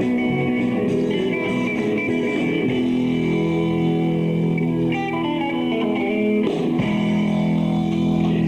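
A live rock band playing, led by guitar over bass, with held chords and a guitar line running through.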